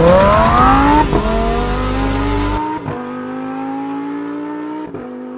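Novitec-tuned Lamborghini Huracán Performante's V10 accelerating hard through the gears: the engine note climbs, with quick upshifts about one, three and five seconds in, each followed by another rise. About halfway through, the road and wind noise cuts off suddenly and the engine carries on thinner.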